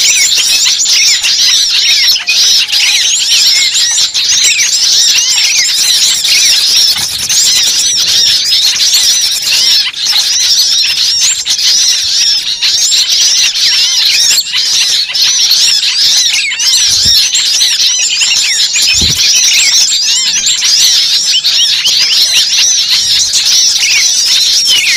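A dense chorus of many small birds chirping and chattering at once, without a break.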